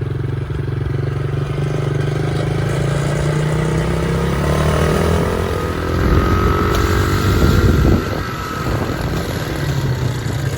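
Motorcycle engine running and accelerating, its pitch climbing steadily over several seconds; it is loudest just past the middle, then eases off.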